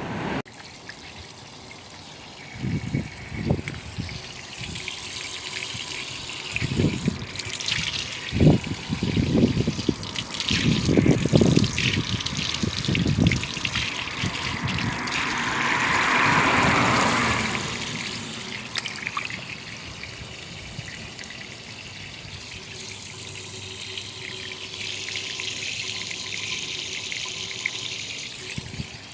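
Water trickling and splashing: irregular splashes over the first half, a louder rush a little past the middle, then a steadier trickle.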